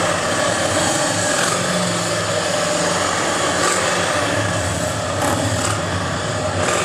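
Vehicle engines running steadily, a continuous low engine hum over outdoor background noise.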